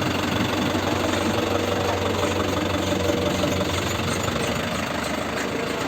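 A vehicle's engine running steadily, with a low, even hum.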